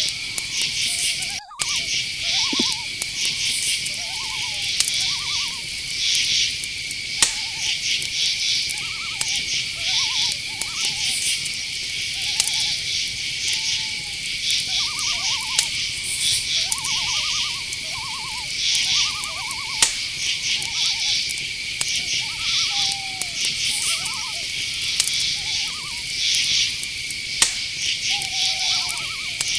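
Night-time chorus of crickets and other insects: a steady high chirping drone with pulsing trills. Over it, short mid-pitched calls from a night bird, some gliding and some quickly trilled, repeat every second or two. The sound cuts out completely for a split second about one and a half seconds in.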